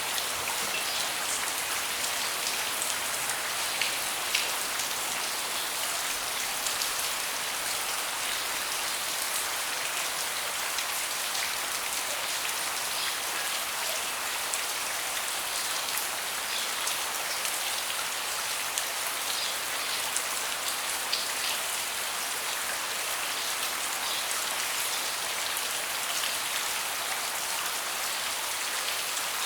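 Steady rain falling on a wooden deck, an even hiss with scattered individual drops ticking.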